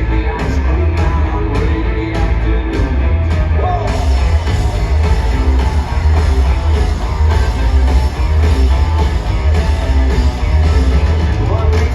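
Live rock band playing loudly, with electric guitars, heavy bass and drums. High cymbal ticks keep a steady beat, and about four seconds in the top end fills out as the cymbals open up.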